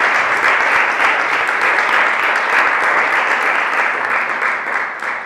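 Audience applauding, a dense, steady clapping that begins to thin out near the end.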